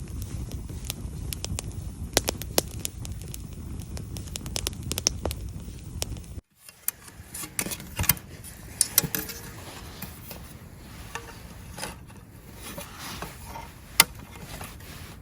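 Wood campfire crackling with sharp snaps over a low rumble. After a sudden cut about six seconds in come scattered clinks, scrapes and knocks of camp cookware being handled, with one sharp click near the end.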